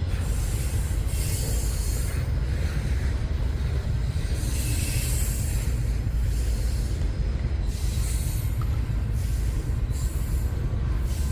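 Freight train rolling past close by: a loud, steady low rumble from the locomotives and cars, with recurring hissing, grinding wheel-on-rail noise every second or two.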